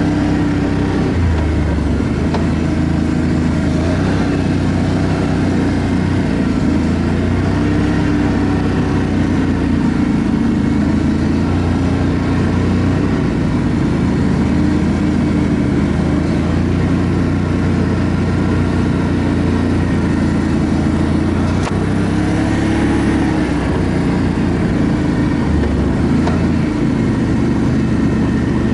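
ATV engine running while riding, with the engine note shifting up and down a few times as the throttle changes.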